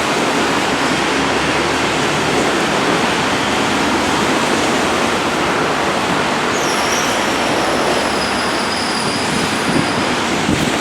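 A train running past on the rails, with a high wheel squeal that sets in about two-thirds of the way through and slides slightly lower over about three seconds, over a steady hiss of rain.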